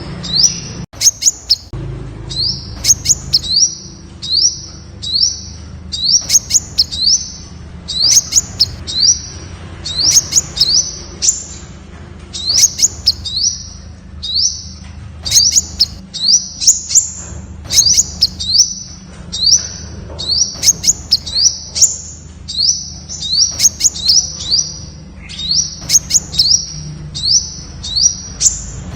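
Temminck's sunbird singing: quick runs of short, thin, high notes, each sliding upward, repeated over and over, with sharp clicking ticks between them.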